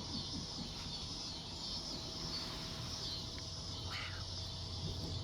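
Steady, high-pitched insect chirring, with a low hum beneath it and one short chirp about four seconds in.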